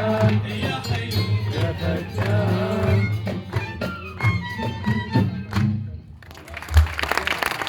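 Live band playing the closing bars of an Iraqi song, a violin-like melody over a steady low beat. The music stops about six seconds in, a single low thump follows, and the audience starts applauding near the end.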